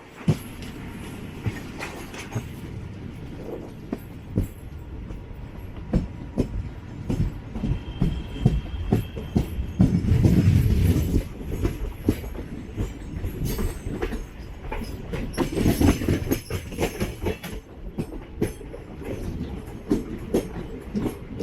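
Passenger train coach running on the track: a steady rumble with irregular sharp wheel clicks and knocks over rail joints, swelling louder twice, with a brief thin high wheel squeal partway through.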